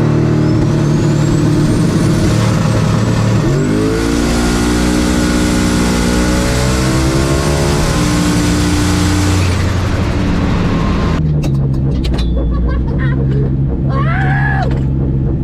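Turbocharged V8 drag car at full throttle, with a turbo whistle rising over the engine. About four seconds in there is a gear change and the revs climb again. Around ten seconds the throttle closes and the hiss stops, leaving the engine running lower and steady.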